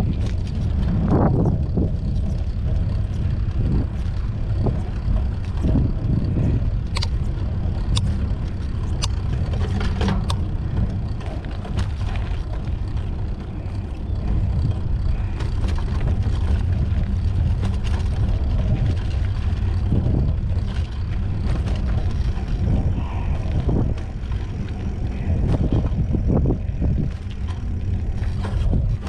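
Wind rumbling on the microphone of a moving mountain bike, with scattered clicks and rattles from the ride, several close together about a third of the way through.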